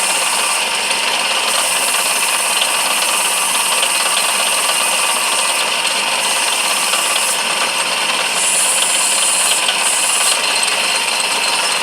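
Lathe running steadily while a cutting tool turns a spinning walnut handle; the high hiss of the cut comes and goes several times, strongest near the end.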